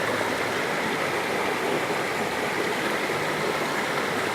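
Waterfall water pouring and splashing in a steady, even rush.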